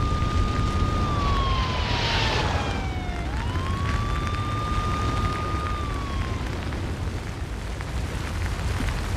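A siren wailing twice: its pitch rises, holds high, then slides slowly down, and the second wail fades out about six and a half seconds in. A steady low rumble runs underneath, with a short hiss about two seconds in.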